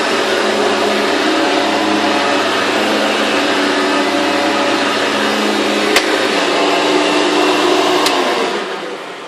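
A Hoover Elite II U4617 upright vacuum with a 5 amp motor running steadily with a whine. There is a sharp click about six seconds in. About eight seconds in it is switched off with a click, and the motor spins down.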